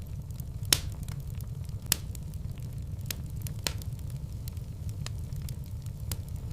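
Fireplace fire crackling: a steady low rumble of the flames with irregular sharp pops, two louder ones about a second and two seconds in.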